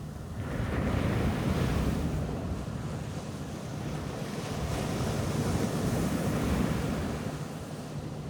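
Ocean waves breaking and washing up the beach, surging twice, with wind rumbling on the microphone.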